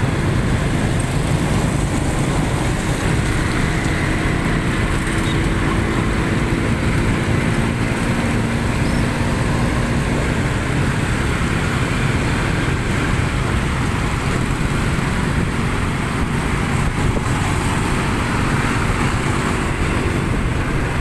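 Steady road traffic noise: a constant low rumble of running vehicle engines and tyres, with faint engine tones that come and go as vehicles pass.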